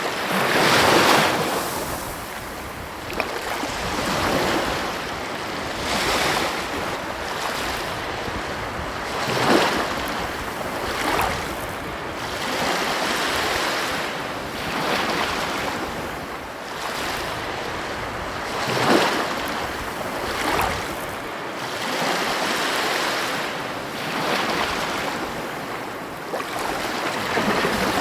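Ocean surf breaking and washing up a beach: a steady rush of water that swells and eases every few seconds, with the biggest surges about a second in, near ten seconds and near nineteen seconds.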